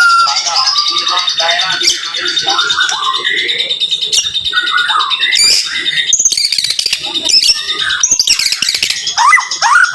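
White-rumped shama (murai batu) singing at close range in rapid, varied phrases of whistles and harsh chatter, ending in a quick run of rising notes.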